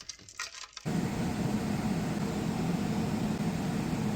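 A few light clicks, then a steady whirring machine noise with a low hum that starts about a second in.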